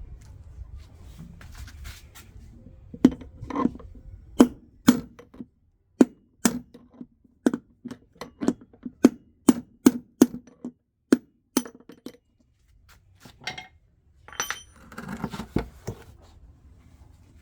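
Hammer blows on metal, about two a second for some nine seconds, each with a short ring: faulty washing machine bearings being driven out of their housing. A brief scraping clatter follows near the end.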